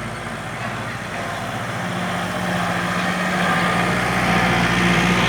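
Engine of a working tractor running steadily, its tone holding and its loudness building gradually.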